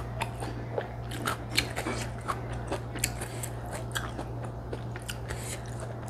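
Close-miked chewing of fried rice vermicelli, with many small irregular wet mouth clicks and smacks, over a steady low hum.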